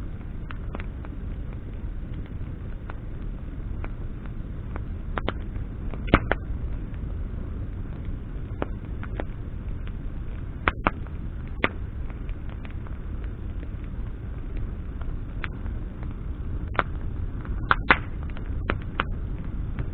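Bonfire of burning branches: a steady low rush of flame with sharp crackles and pops at irregular intervals, a few of them loud.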